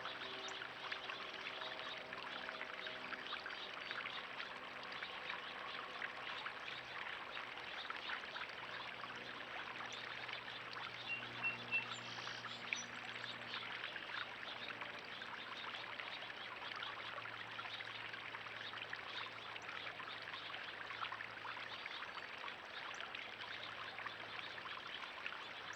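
Steady trickling and splashing of water in a backyard pond, with a few brief bird chirps about eleven seconds in.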